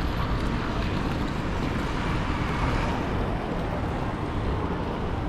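Steady outdoor urban background noise with a low rumble, no single distinct event.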